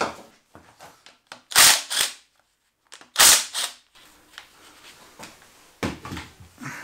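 Sharp clacks and clatter of metal engine parts and tools being handled and set down: two loud ones about a second and a half in, the loudest just after three seconds, and two lighter ones near the end.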